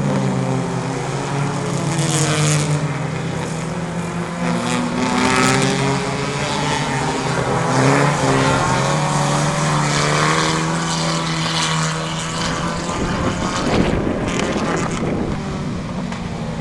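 Several race car engines running hard around the track, their pitches rising and falling and overlapping as the cars accelerate, lift off and go past.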